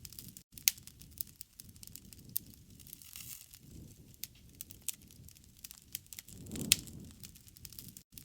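Wood fire crackling, with sharp pops scattered throughout, the loudest about a second in and near the end, over a low rumble that swells and fades every few seconds.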